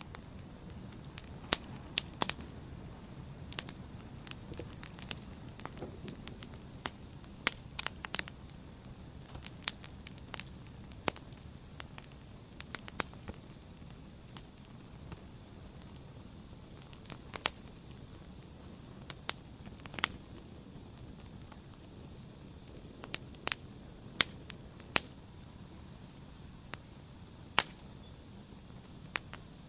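Wood fire burning in a fireplace: irregular sharp crackles and pops, a few of them loud, over a low steady hiss of the flames.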